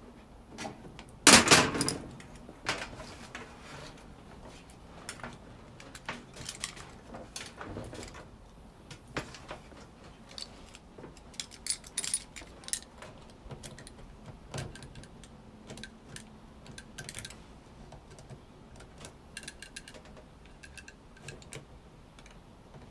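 Small plastic and metal clicks, taps and rattles as a washing machine door switch is pried apart by hand, with the loudest clatter about a second in and scattered clicks after it.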